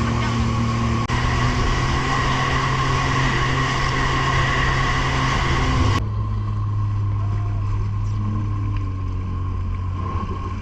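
Inboard or outboard engine of a small powered watercraft running steadily at speed, with rushing water and wind noise over it. The sound changes abruptly about six seconds in and goes on with a similar engine hum.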